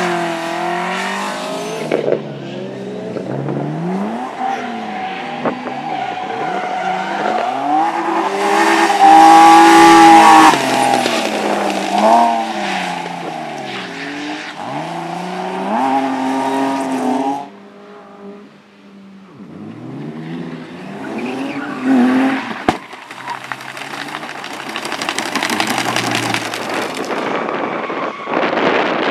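Rally car engines revving hard, their pitch climbing and dropping again and again through gear changes and lifts, with tyres skidding on the track. The loudest moment comes about a third of the way in, and there is a short lull a little past the middle before engine noise builds again.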